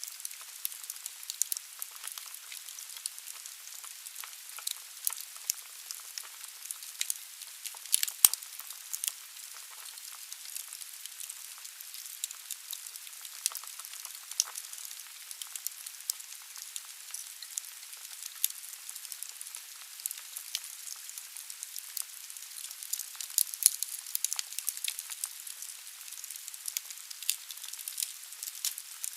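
Firewood burning in a fireplace: a steady hiss with frequent small crackles and pops, and one louder sharp crack about eight seconds in.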